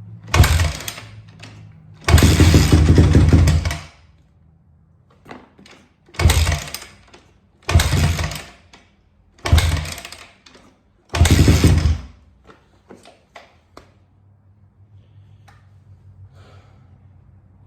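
A 2004 Honda CRF250R's four-stroke single-cylinder engine warming up after a cold start. It is revved in six short, loud throttle blips, the second held longest at about two seconds. Between the blips, and for the last few seconds, it drops back to a low, steady idle.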